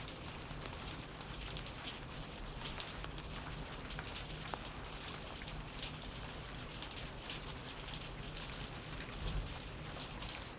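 Steady rainfall, with many separate drop hits spread through it, and a brief low thud about nine seconds in.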